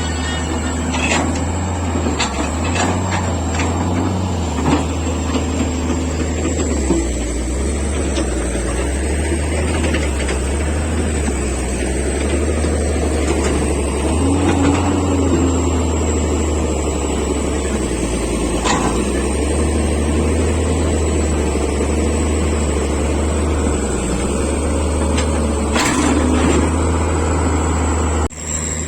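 Vehicle engine and road noise: a steady low rumble that swells and eases slowly, with a few scattered knocks.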